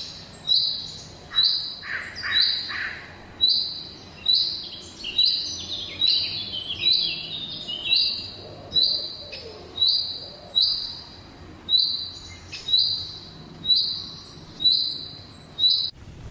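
Songbirds chirping: a high, sharp call repeated about once a second, with softer chirps from other birds between.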